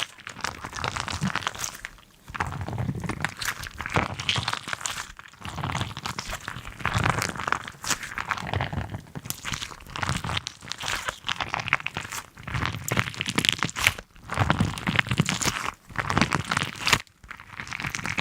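Repeated crunching and crinkling in bursts of a second or two, with short pauses between them.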